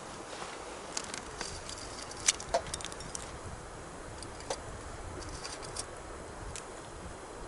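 Wood campfire crackling, with a handful of sharp pops, the loudest about two seconds in, over the steady rush of a river.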